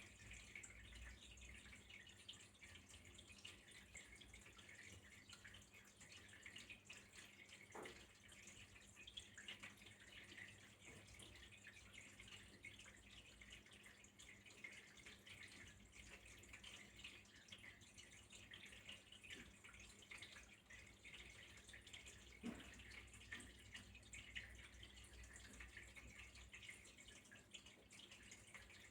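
Faint trickling and dripping of a small stream of running water, a steady fine patter with a couple of soft knocks.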